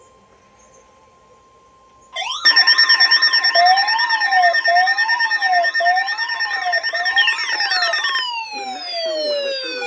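Weather radio warning alarm: a faint steady tone for about two seconds, then a loud wailing electronic siren with several pitches sweeping up and down about once a second. Near the end the siren winds down in falling pitch.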